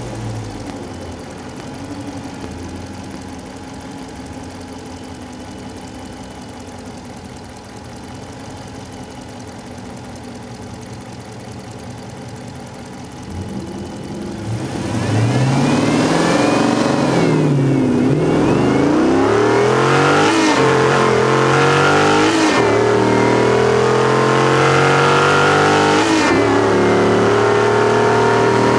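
2012 Dodge Challenger 392's 6.4-litre HEMI V8 with an aftermarket muffler, heard from inside the car: idling steadily at the start line, then launching about 15 seconds in at full throttle. The pitch climbs through each gear, with several quick manual upshifts as it accelerates down the quarter mile.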